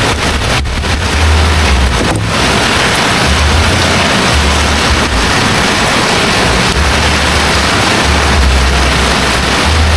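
Heavy rain pouring steadily in a constant loud hiss, with wind buffeting the microphone in irregular low rumbles.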